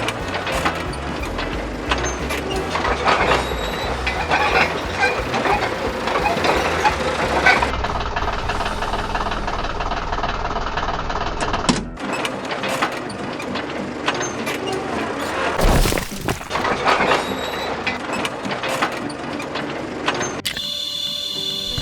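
Cartoon sound effects of heavy construction machinery: a low engine rumble under clanks and knocks. The rumble drops out about halfway through while the clanking goes on.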